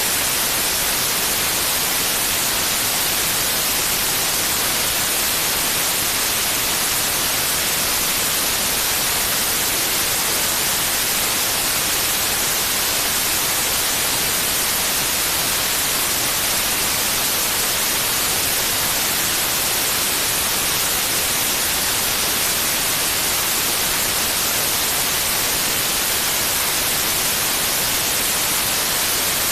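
Steady, unbroken white noise: an even hiss, brightest in the high frequencies, with no change in level.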